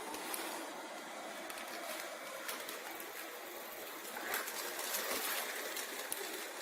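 ILIFE V5 robot vacuum cleaner running: a steady hiss with occasional light clicks.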